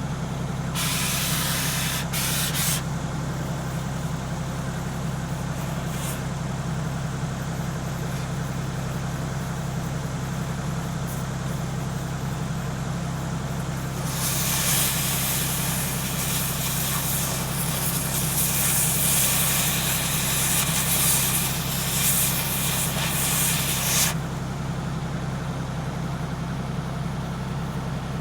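Compressed air hissing out in two stretches, a short one near the start and a long one of about ten seconds in the middle, over a steady low engine hum.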